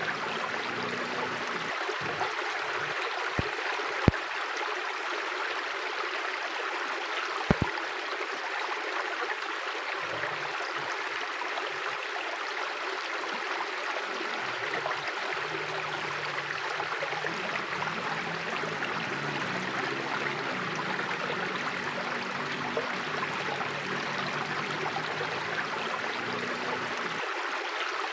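Mountain river flowing, a steady rush of water, with a few sharp clicks in the first eight seconds.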